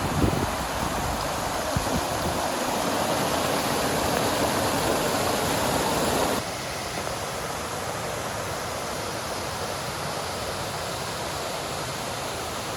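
A wide, 15-foot waterfall on the Mayo River, its water rushing steadily. The rush drops suddenly in level about six seconds in.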